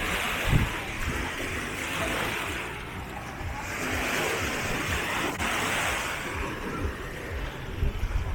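Small waves washing onto a sandy beach, the surf swelling and drawing back a few times, with scattered low thumps on the microphone.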